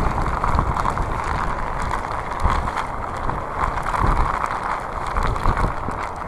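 Typhoon wind buffeting a phone's microphone: a steady rush of wind noise over a heavy low rumble.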